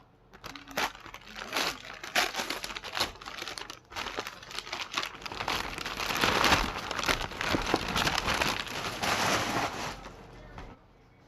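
Wrapping paper being unwrapped from a slime container: crinkling and rustling in quick crackly bursts, busiest in the second half, stopping shortly before the end.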